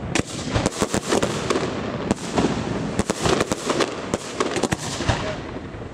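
Aerial fireworks display: a rapid barrage of shell bursts, with many sharp bangs in quick succession and a dense rush of noise between them.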